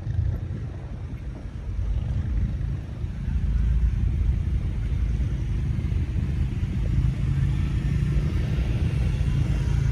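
A heavy truck's diesel engine running with a deep, steady rumble, getting louder about three and a half seconds in.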